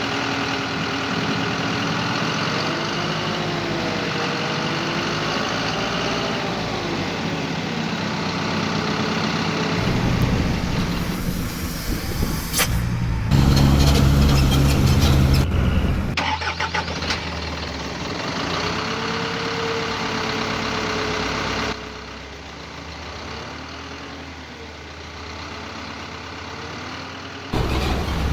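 Diesel dump truck engines idling and revving across several short clips that cut abruptly from one to the next. The pitch wavers up and down in places, and the deepest, loudest engine stretch falls a little before the middle.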